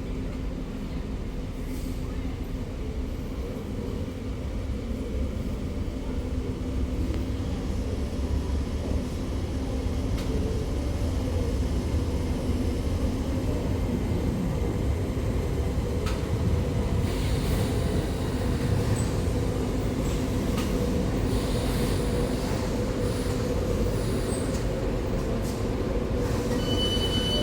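An old Tyne and Wear Metrocar electric train pulling into an underground station: a low rumble of wheels on rail that grows louder over the first ten seconds, with squealing wheels. A steady high tone starts near the end.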